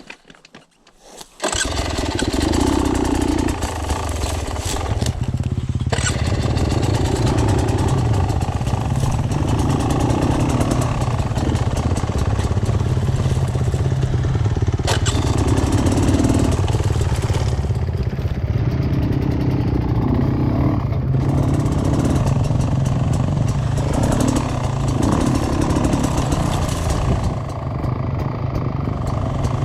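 Off-road vehicle engine running on a trail, coming in suddenly about a second and a half in, then running on with the throttle swelling and easing every second or two.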